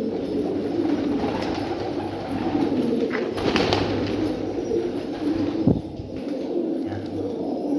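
Domestic pigeons cooing, several voices overlapping in a continuous low rolling coo, with one sharp knock about five and a half seconds in.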